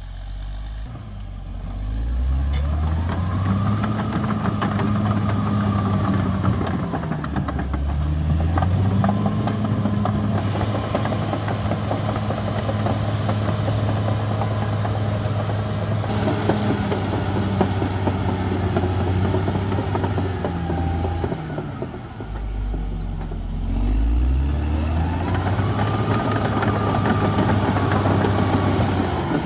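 CAT D6R XL bulldozer's diesel engine revving up and holding high under load, easing off briefly twice before picking up again.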